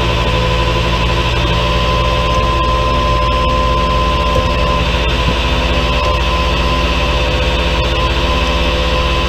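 A vehicle engine running steadily, with a constant whine over a noisy rumble.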